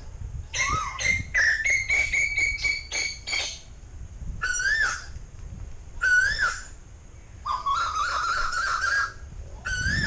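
Asian koels calling: a whistled note that rises and falls, repeated several times, plus a quick run of short notes and, later, a longer wavering call.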